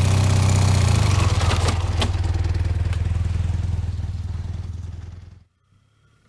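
Motorcycle engine running steadily, with a couple of light clicks, then fading and cutting off to near silence about five and a half seconds in.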